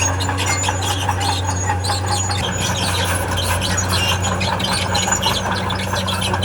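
Diesel engine of a tracked earthmover running steadily, while its steel tracks squeal and clatter.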